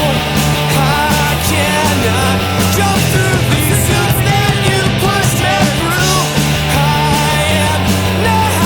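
Loud punk-rock band music with distorted electric guitars, bass and drums.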